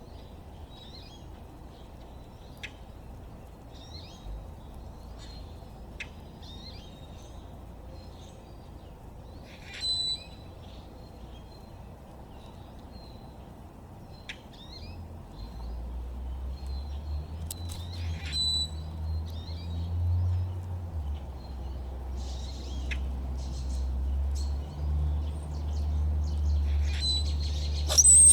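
Backyard wild birds chirping and calling, with short high calls scattered throughout and a few louder ones. From about halfway through, a low steady rumble rises underneath.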